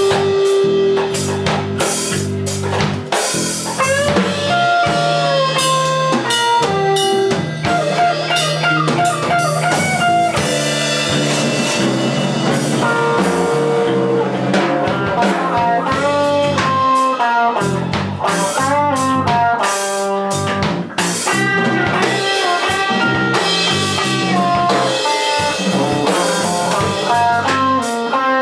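Live blues band playing: a guitar line with bending notes over bass and a drum kit.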